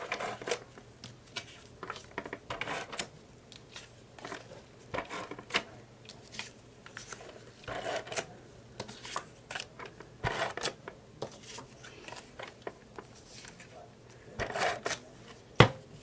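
Paper and cardstock being handled: printed tags and pages rustling and shuffling, with scattered taps and clicks as they are set down, and a sharper knock near the end.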